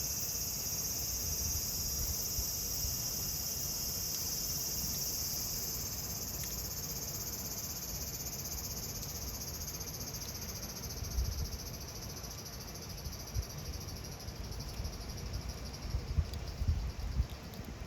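Cicadas droning in a steady, high-pitched chorus that slowly fades over the second half, over a low rumble with a few low thumps near the end.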